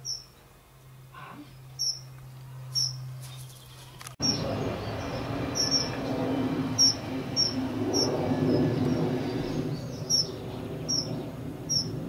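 Short, high chirps from a small bird, repeated about once or twice a second. From about four seconds in, a steady rushing noise runs underneath them.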